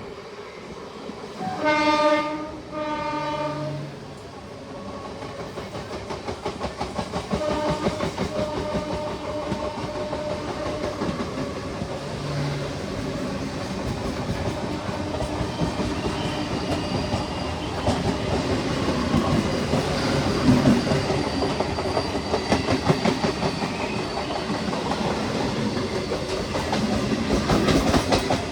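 ICF local train sounding two horn blasts, each about a second long, then running with a rhythmic clickety-clack of wheels over rail joints that grows steadily louder.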